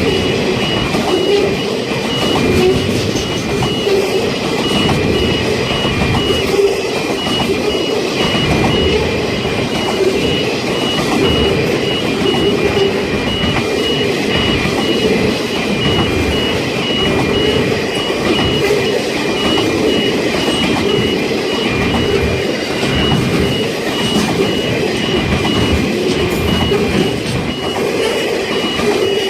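Train led by two CM-class diesel locomotives passing, a steady, loud rumble of engines and wheels. Over it, a level crossing warning bell rings throughout as a high, repeating on-off tone.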